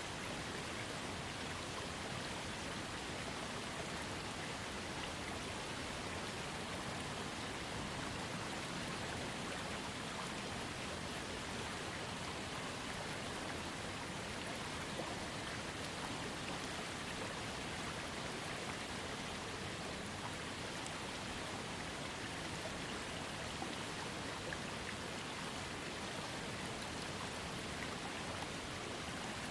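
Small waterfall fed by a trickling creek: water falling and splashing, steady throughout.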